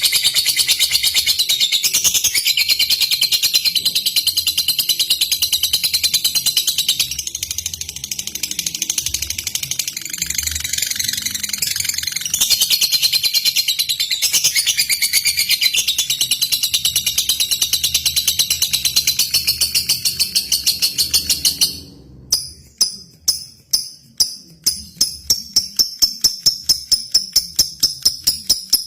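Lovebird singing a long, rapid, high-pitched trill that runs unbroken for about twenty seconds, then breaks off suddenly and carries on as a string of fast, sharp chirps.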